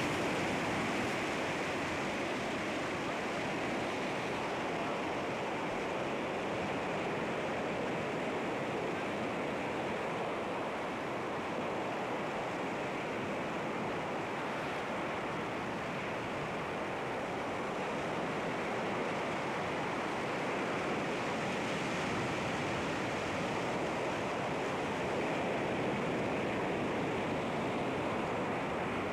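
Sea waves washing against rocks: a steady, continuous rush of surf with gentle swells in loudness and no distinct single crashes.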